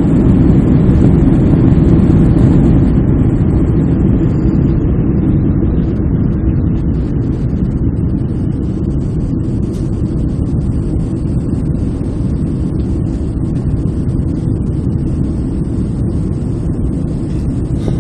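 Airliner cabin noise heard from a window seat during the climb after takeoff: a steady, loud low rumble of engines and rushing air. It eases down over the first several seconds, then holds steady.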